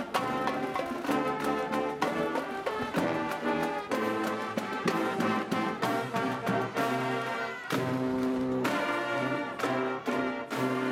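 Marching band playing: brass horns sound held, stacked notes over a steady beat of drum hits.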